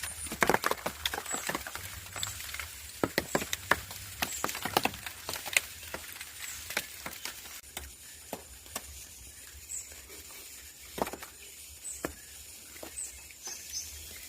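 Irregular light wooden knocks, snaps and clicks, as of sticks being handled or broken, busiest in the first five seconds and then sparser, with one stronger knock about eleven seconds in.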